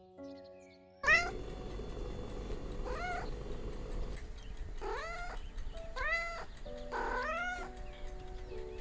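Domestic cat meowing five times, each meow rising and falling in pitch, the first the loudest. It starts about a second in, over a low hum and soft background music.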